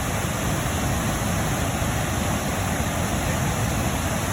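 Steady rushing of falling water, a waterfall pouring into a pool, as an even noise with no breaks.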